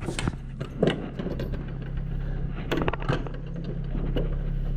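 An engine running steadily and getting a little louder, with scattered metallic clinks and clanks over it.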